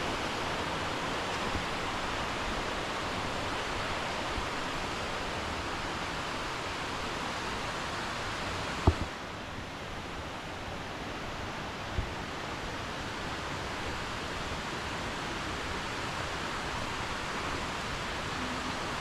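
Steady rush of a mountain creek tumbling over rocks. A sharp knock about nine seconds in, and a fainter one three seconds later.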